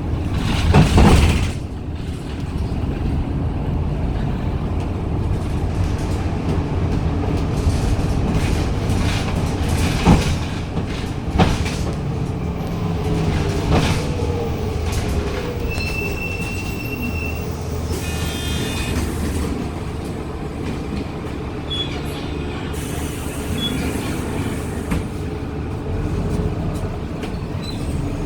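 Cabin sound of a Daewoo NEW BS106 city bus with its Doosan GL11P CNG engine running, with a loud rush of noise about a second in, a couple of sharp knocks, and short electronic beeps around the middle.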